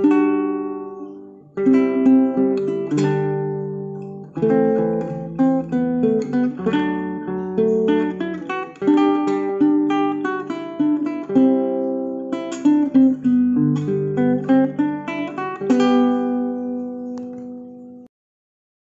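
Acoustic guitar music, plucked and strummed chords, that cuts off abruptly about a second before the end.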